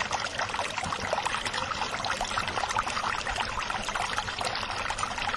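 Running water trickling and splashing steadily, with a dense patter of small splashes.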